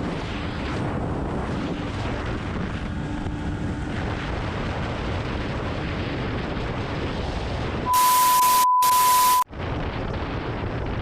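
Steady rushing noise, then about eight seconds in a loud burst of static with a steady high beep, broken briefly in the middle and cut off after about a second and a half.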